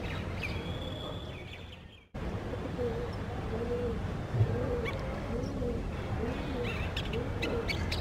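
Birds calling: a low hooting note repeated about twice a second, with high chirps over it that grow busier near the end. The sound drops out for a moment about two seconds in, and there is a single short thump a little after the middle.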